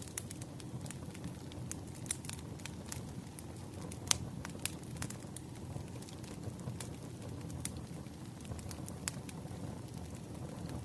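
Firewood burning and crackling: a steady low rush of the fire with sharp pops and snaps at irregular intervals, the loudest about four seconds in.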